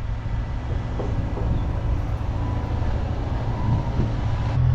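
Cat 320 excavator's diesel engine running steadily, with a faint whine in the middle. Just before the end a louder, steadier low drone takes over.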